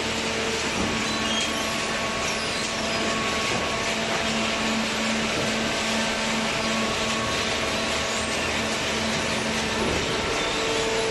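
Paper baling machine running with a steady mechanical hum and hiss, low steady tones fading in and out over it.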